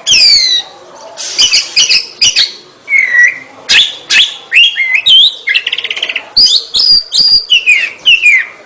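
Oriental magpie-robin (kacer) in full song: a rapid, loud run of varied whistled phrases with falling slurs and sharp notes, and a quick buzzy rattle about halfway through.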